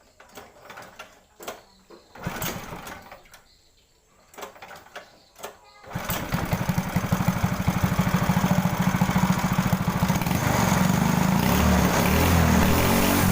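Small ketinting longtail-boat engine fitted with a shortened motorcycle racing exhaust, starting suddenly about six seconds in after a few knocks and rattles, then running loud with rapid exhaust pulses and revving up steadier near the end.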